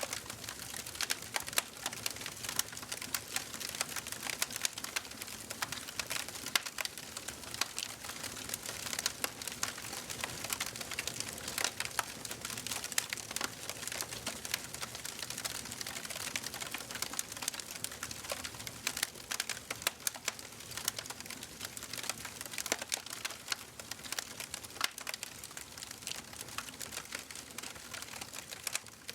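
Wood fire crackling in a fireplace: many irregular sharp pops and snaps over a steady soft hiss of burning.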